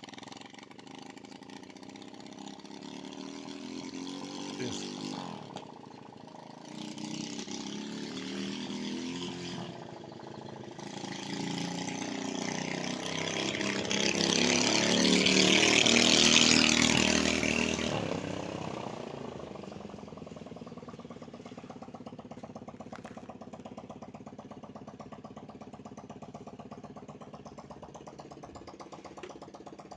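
Motorcycle engine running, growing louder to a peak about halfway through, then falling back to a steady, quieter running sound.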